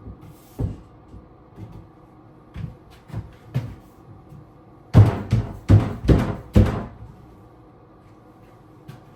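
Knocks and thumps on a wooden vanity cabinet as it is handled while being leveled: a few light knocks, then a quick run of about five louder knocks around five to seven seconds in.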